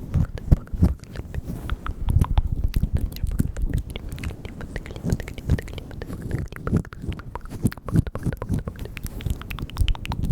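ASMR mouth sounds made right at the microphone: a dense, irregular run of wet tongue and lip clicks and smacks.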